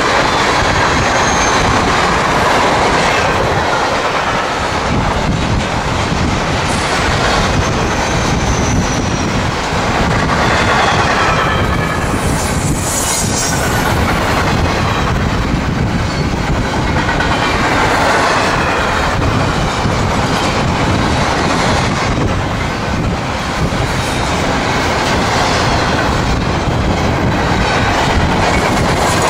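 Freight train of tank cars and gondolas rolling past, a steady rumble and clatter of steel wheels on the rails, with faint wheel squeals that slide in pitch now and then.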